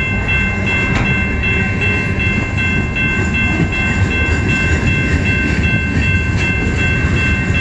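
Freight cars of a Canadian National mixed freight rolling past close by: a steady rumble of steel wheels on rail with occasional clicks over the rail joints, and a steady high-pitched squeal over it.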